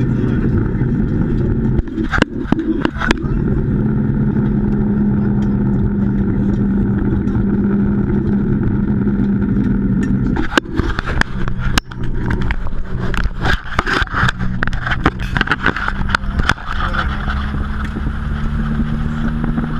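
Nissan 200SX S14's turbocharged SR20DET four-cylinder engine running under steady load, heard from inside the cabin. Clusters of sharp clicks and knocks come through about two seconds in, then again in a longer run from about ten to sixteen seconds in.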